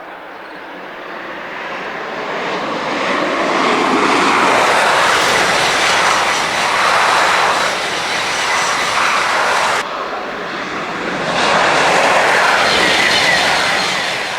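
TGV high-speed train passing at full speed: a loud rushing roar with no clear pitch that builds over the first few seconds and holds. It breaks off suddenly about ten seconds in, then swells again about a second later and eases off near the end.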